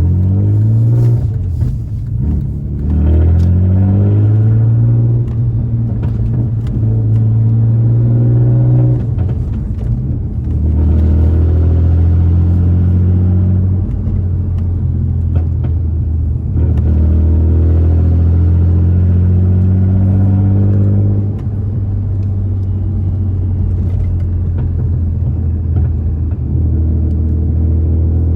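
Audi B5 S4's 2.7-litre twin-turbo V6 through a straight-piped exhaust with the resonator removed, pulling up through the revs with a brief dip between gears, then running at steadier revs with a few changes in pitch and a drop in level about two-thirds of the way through.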